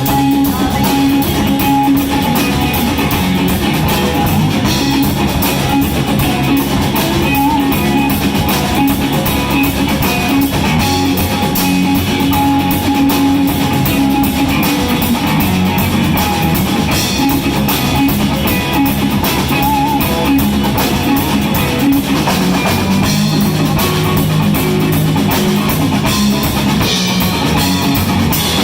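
Live blues band playing with electric guitar and drum kit, a steady beat under sustained guitar notes.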